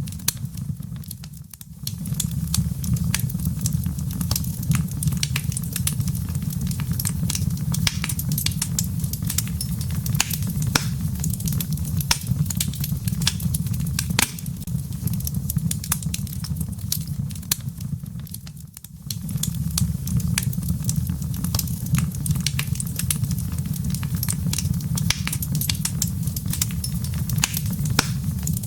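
Wood fire in a fireplace crackling, with frequent sharp pops over a steady low rumble of flames. The rumble drops away briefly twice.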